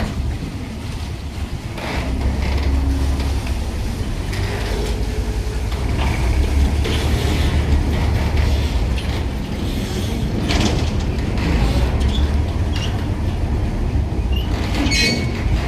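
Low, steady rumble of a moving vehicle heard from aboard, with scattered creaks and knocks of its body and fittings.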